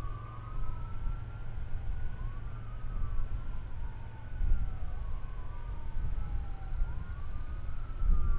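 Emergency vehicle siren wailing, its pitch sweeping slowly up and down, with overlapping sweeps that suggest more than one siren, over a steady low rumble.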